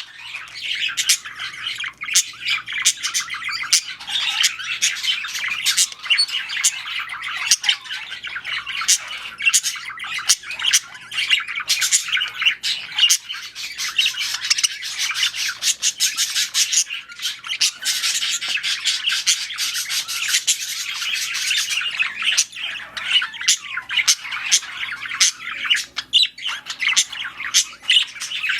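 Budgerigars chattering and squawking continuously, a dense mix of warbles, chirps and sharp clicks.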